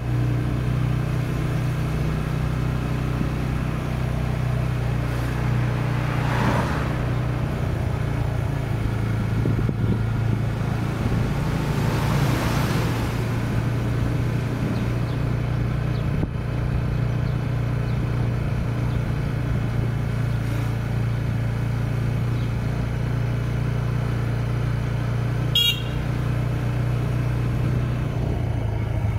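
Steady drone of a vehicle engine with road noise. The noise swells and fades twice, and a brief high chirp sounds near the end.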